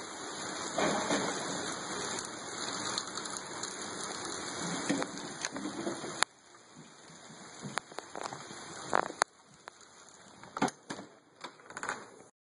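Steady rain falling, an even hiss. About six seconds in it drops suddenly quieter, leaving scattered drips and taps, and the sound cuts off near the end.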